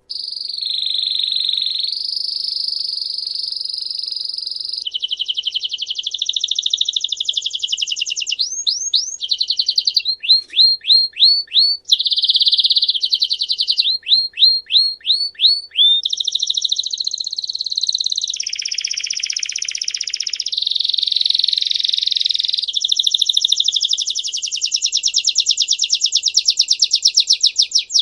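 A songbird singing a long, loud, continuous song of fast high trills and rolls, broken by runs of quick repeated notes that each sweep downward in pitch.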